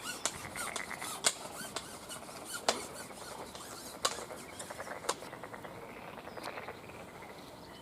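Irregular sharp clicks and taps, about six in all, with fine rapid ticking between them and faint bird chirps behind.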